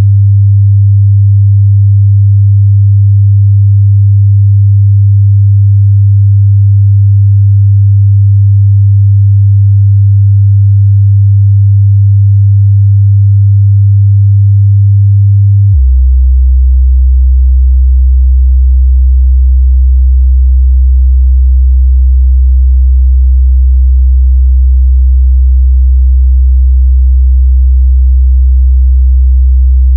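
Oscillator sine-wave hum, a steady low tone at about 100 Hz that drops abruptly to about 64 Hz some 16 seconds in. It is a recreation of the 'Hum' that some people report hearing at night.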